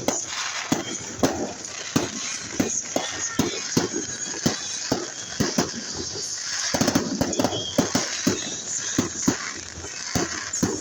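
Fireworks going off: an irregular string of sharp bangs and crackles, one to three a second.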